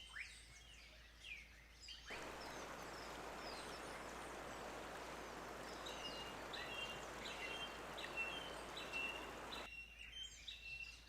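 Birds chirping and calling, with a steady rushing noise underneath from about two seconds in until near the end. In the second half one bird repeats a short high chirp about twice a second.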